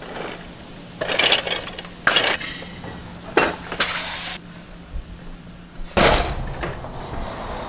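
Equipment being handled and set down during truck unloading: about five loud clattering, clinking bursts, over a steady low hum that stops near the end.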